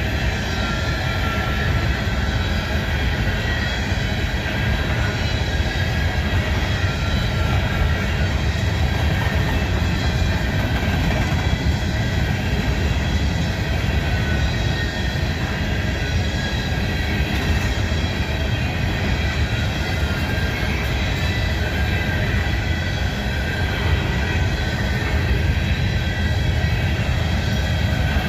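Empty coal train's cars rolling past close by: a steady rumble of steel wheels on the rails with a thin high-pitched squeal running over it.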